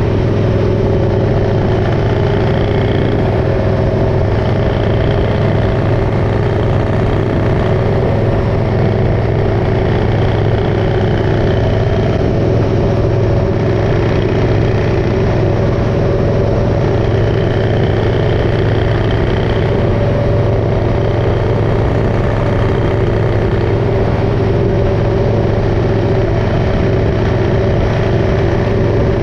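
Motorcycle engine running at a steady cruise, its pitch holding level throughout, under constant road noise.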